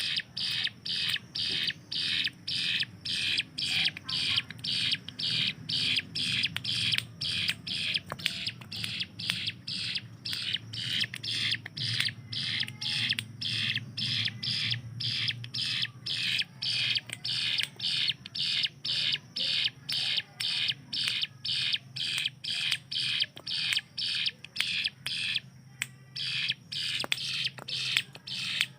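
Ciblek gunung, a prinia, calling in a long rapid run of short, sharp, high notes at about two to three a second, with one brief break near the end, over a low hum.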